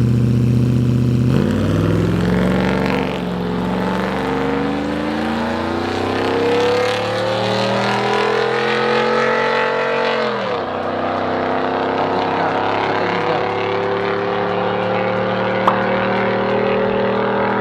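Engine running hard in a race or contest. It holds steady for about a second, then climbs slowly in pitch for several seconds, drops sharply about ten seconds in, and holds a steady high pitch to the end.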